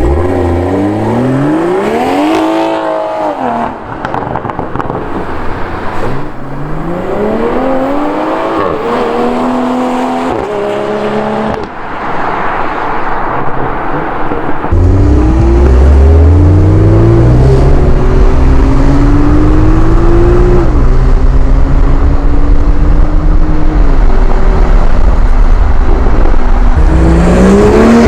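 Tuned BMW M340i's B58 turbocharged inline-six with an M Performance exhaust accelerating hard through the gears, its pitch climbing and dropping back at each upshift. A heavy low rumble joins about halfway through, under further rising pulls.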